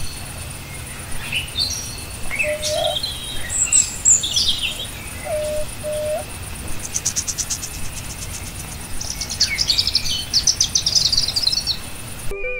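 Several songbirds chirping and trilling, with short whistled chirps early on and fast trills about halfway and again near the end, over a steady faint high hiss.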